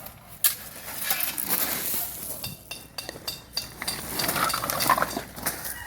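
Metal shovels scraping and clinking in gravel, with irregular sharp clinks of stone on steel.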